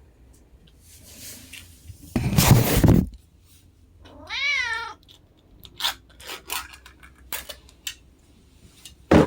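A domestic cat gives one meow with a quavering pitch that rises and falls, about four seconds in. It comes after a loud burst of rustling or clattering noise about two seconds in, and is followed by a scatter of light clicks and taps.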